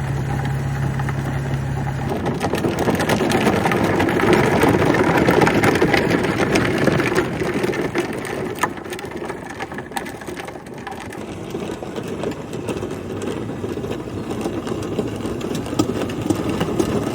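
Battery-powered Power Wheels ride-on toy car driving: its small electric motor whirs while the hard plastic wheels crunch and rattle over rough ground. A steady low hum at the start stops about two seconds in.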